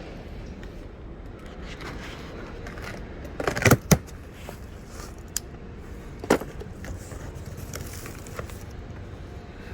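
A delivery box being torn open and its parts unpacked: handling and rustling with a few sharp knocks, the loudest a pair about four seconds in and another about six seconds in.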